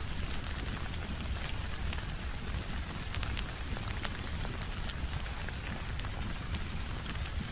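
Steady rain on a window pane, layered with the crackle of a fireplace. Scattered sharp ticks and pops run over an even hiss and a steady low rumble.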